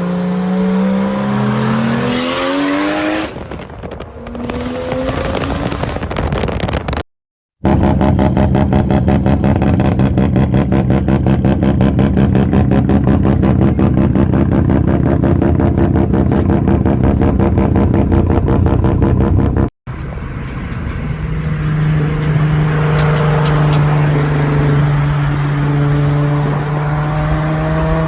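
Loud performance car engines through aftermarket exhausts, in three clips split by sudden cuts. First an engine revs up, rising in pitch. Then comes a steady, loud engine note for about twelve seconds, and last an engine holds a steady lower note with a few sharp cracks.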